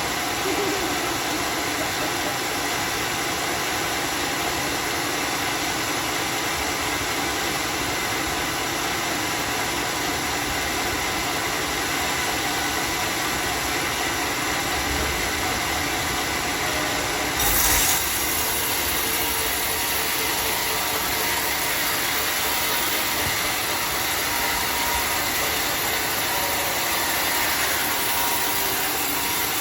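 Sawmill machinery running steadily, an even mechanical noise, with one brief louder knock a bit past halfway through.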